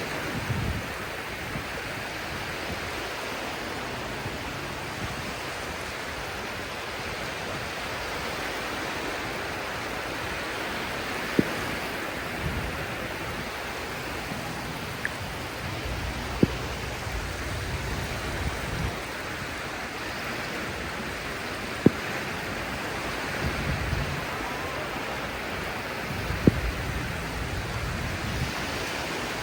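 Sea surf washing on a beach, a steady hiss of water with low swells rising and falling every few seconds. A few short sharp clicks stand out above it, about every five seconds from the middle on.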